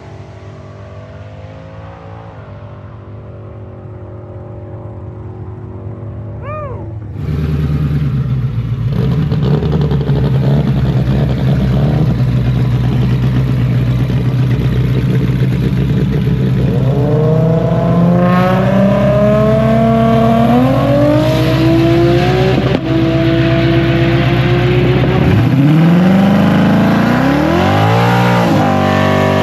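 Car engine running, quieter at first and then suddenly much louder about seven seconds in; it holds steady for a while, then accelerates with a climbing pitch, breaks briefly, and climbs and falls again near the end.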